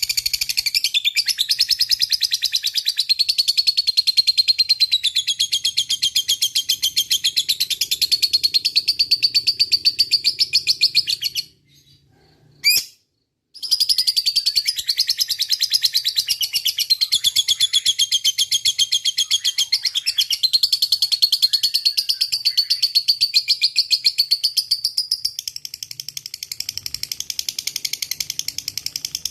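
A lovebird's long 'ngekek' chatter: a fast, unbroken stream of high chirps. It stops for about two seconds near the middle, then starts again.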